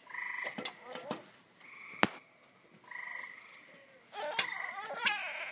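A frog making repeated whining, cat-like calls: four buzzy, even-pitched cries, each about half a second long, spaced a second or so apart. A sharp click comes about two seconds in.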